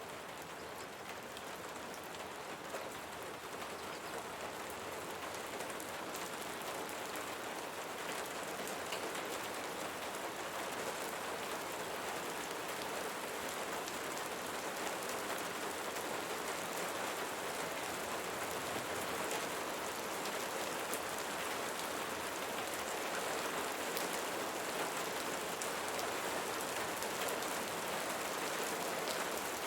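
Steady rain falling and pattering on a surface, a dense even hiss with fine drop ticks, swelling slightly over the first several seconds.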